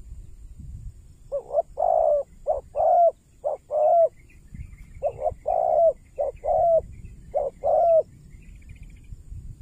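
Spotted dove cooing: two phrases of soft, rounded coos, each a run of short notes alternating with longer ones that drop slightly in pitch at the end.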